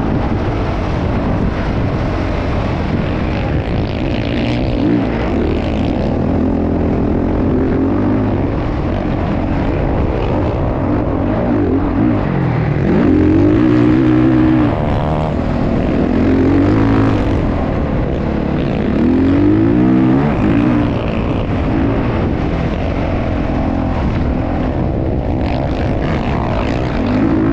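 Motocross bike engine running loud, revving up and down, its pitch rising and falling several times.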